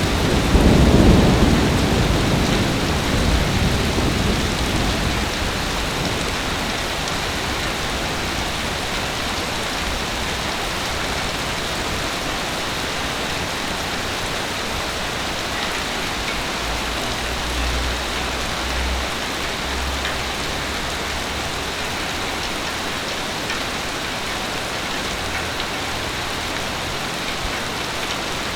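Heavy rain falling steadily. A low thunder rumble swells at the start and fades away over the first few seconds.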